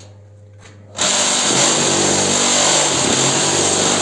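Cinder-block machine's vibrator switching on about a second in and shaking the filled mould under the lowered press plate with a loud, steady buzz: the vibro-compaction of the blocks.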